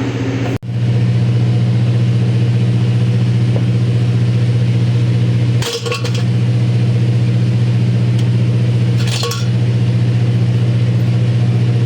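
Steady low machine drone from running machinery, with brief metallic clinks of tools about six and nine seconds in.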